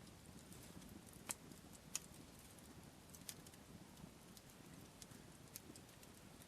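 Wood fire in a campfire burning faintly, with a few sharp, irregular pops, the loudest two about a second and two seconds in.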